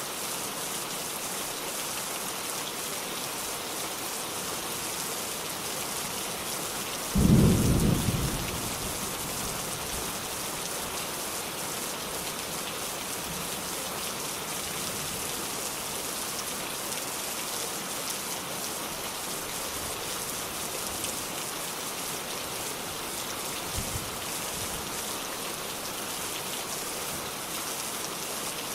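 Steady rain falling, with a single sudden low rumble of thunder about seven seconds in that fades away within a couple of seconds.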